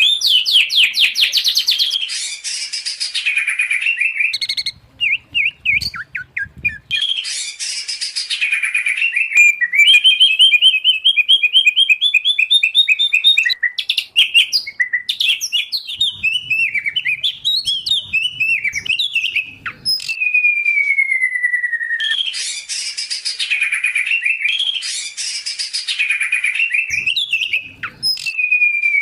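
Loud, continuous song of white-rumped shama, oriental magpie-robin and greater green leafbird mixed together: rapid chattering phrases, a rising series of clear notes, and long falling whistles, a few of them near the end.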